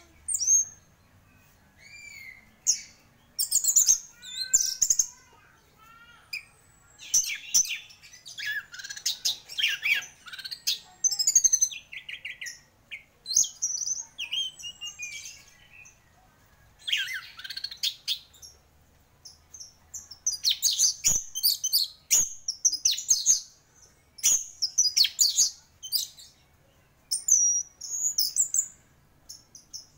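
Orange-headed thrush (anis merah) singing: phrases of varied whistles, slurred notes and fast chattering, with short pauses between them.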